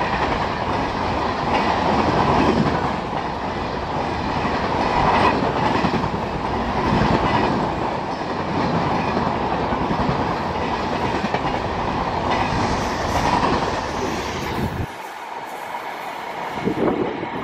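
Passenger coaches of an electric-hauled express train passing close by at speed, the wheels clattering over the rails with a swell each time a coach's bogies go past. About fifteen seconds in, the sound drops suddenly to a quieter rumble.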